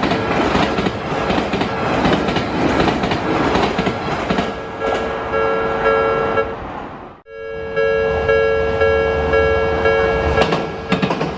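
Odakyu Romancecar MSE express train passing, its wheels clattering rapidly over the rail joints. After a sudden break about seven seconds in, steady repeating tones of a level-crossing alarm ring on as the next train approaches.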